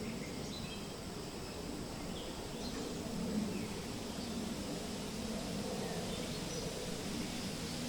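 Forest ambience: a steady wash of wind through the trees, with faint, scattered short bird chirps and a thin, steady high insect-like whine.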